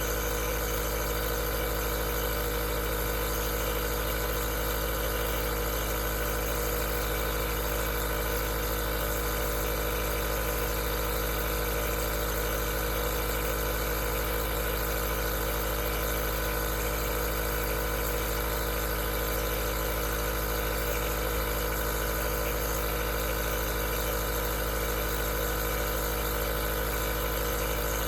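Aerosol nebulizer's compressor running steadily: a constant mechanical hum with a steady hiss of air that does not change.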